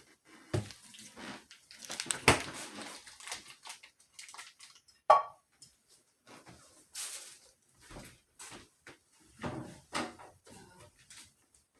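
Kitchen handling noises: scattered knocks and clatters of dishes and cookware, with a solid knock about two seconds in and a sharp ringing clink about five seconds in.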